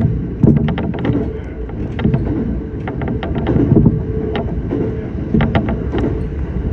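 Electric train running, heard from the front of the cab: a steady low rumble with a faint steady hum, broken by clusters of sharp clicks about every second.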